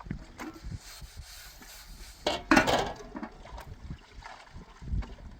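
Handling noises: scattered knocks and clinks, with a louder clattering rustle about two and a half seconds in.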